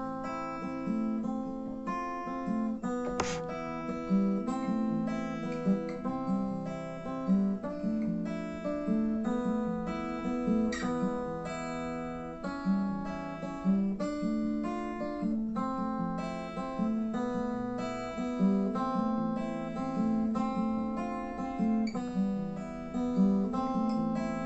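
Acoustic guitar playing a song's instrumental intro: a steady run of picked and strummed notes with no singing.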